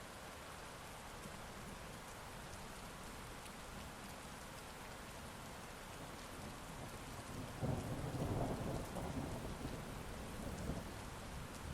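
Steady heavy rain falling, with a roll of thunder building about seven and a half seconds in and rumbling on to the end.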